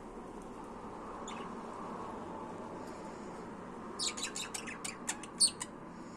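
Budgerigar chirping: one faint short chirp, then about four seconds in a quick run of short, high chirps, over a steady background hiss.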